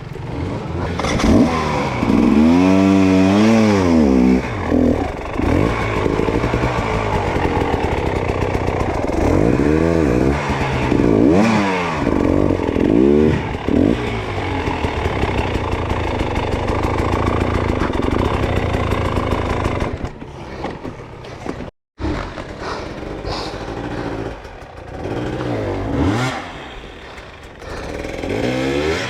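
Dirt bike engine revving up and down again and again as it is ridden. The sound cuts out for a moment about 22 seconds in and comes back quieter.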